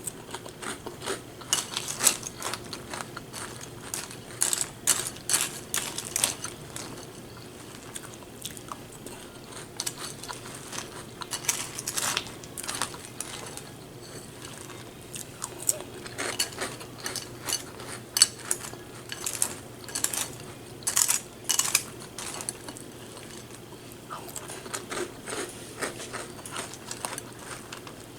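Close-up crunching of crisp birthday cake cereal being chewed: bouts of rapid crackles that come and go.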